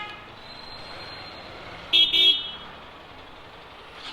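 A vehicle horn beeps twice in quick succession about two seconds in, over the steady noise of riding on the road.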